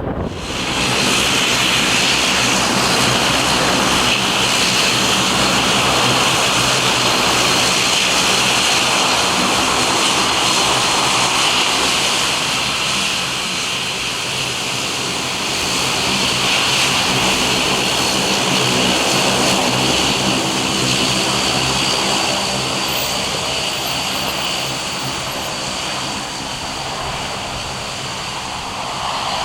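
Aircraft engines running at high power: a loud, steady rush with a thin high whine over it.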